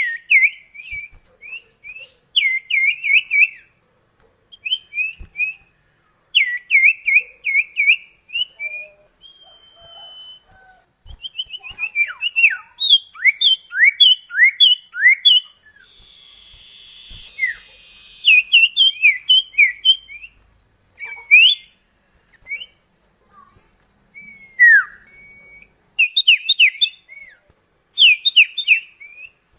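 Cipoh kacat (iora) singing in fast rolling phrases of quick, clear down-slurred chirps, phrase after phrase with short pauses between.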